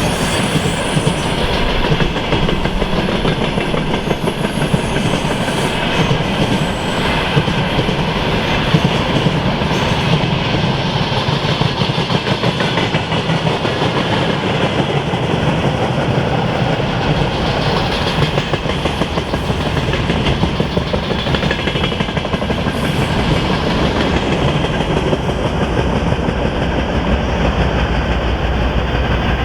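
Freight train rolling past on the rails, a steady loud rumble with the clatter of wagon wheels over rail joints.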